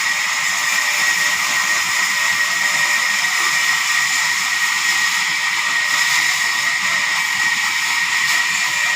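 Sawmill saw running: a steady high whine over a hiss, unchanging throughout.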